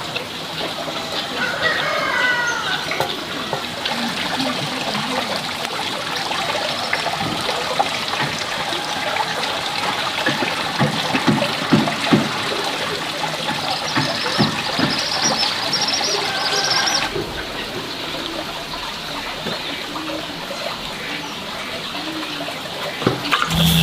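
Water trickling and splashing, with a few knocks and a short bird call about two seconds in.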